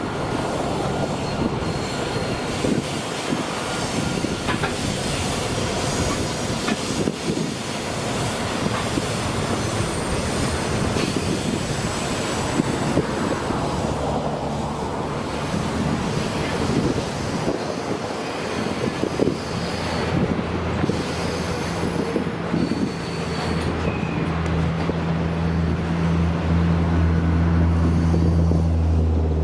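EMD 81 class diesel locomotives pass, then a long rake of grain hopper wagons rolls by on a curve: steady wheel-and-rail rumble with thin, high flange squeals. From about two-thirds of the way through, a steady low engine hum builds and grows louder.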